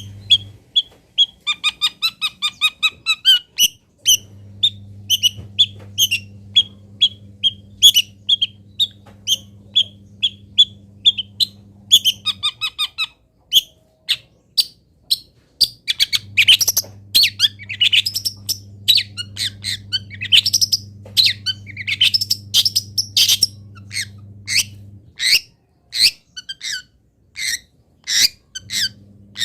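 Songbird recording used as masteran, filler-song training audio for long-tailed shrikes: sharp chirps repeated about two or three times a second, then a stretch of faster, varied sweeping phrases, then spaced chirps again. A low steady hum in the background cuts in and out several times.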